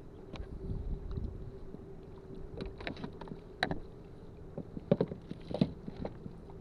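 Scattered knocks and taps on a kayak as a caught redfish and gear are handled for measuring, over a low wind rumble.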